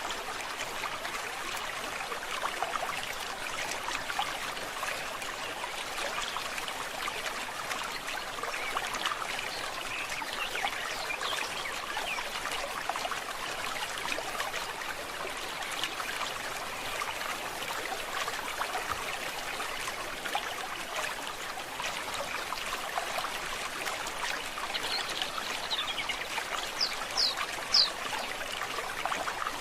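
A forest stream trickling and babbling steadily. Near the end a bird gives a few short, high chirps.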